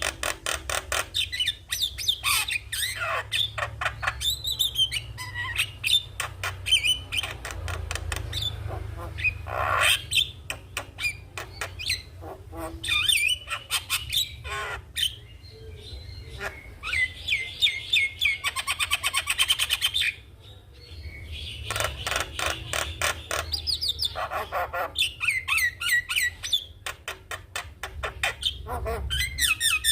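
Javan myna singing energetically, a long varied song of rapid clicking chatter, warbling and gliding whistles and harsh squawks, with a short pause about two-thirds of the way through. A steady low hum runs underneath.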